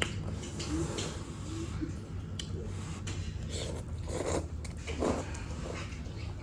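Close-up eating sounds: biting, chewing and crunching on food, with scattered small clicks and smacks. Underneath runs a steady low rumble, which the eater has just called an airplane going over.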